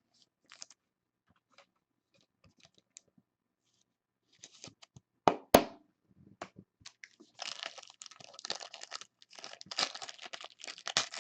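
Faint clicks of cards and plastic being handled, a sharp snap about five and a half seconds in, then steady crinkling and tearing from about seven seconds in as a trading-card pack wrapper is torn open.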